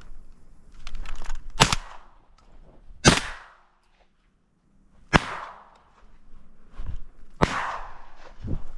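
Shotgun fired four times, about two seconds apart, each shot a sharp crack with a short echoing tail; the second and third are the loudest.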